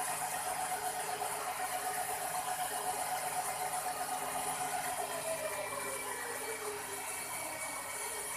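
Electric motor and rotors of a 4-channel RC toy helicopter whirring with a light rattle; about five seconds in the pitch falls as the throttle is eased and the rotors slow.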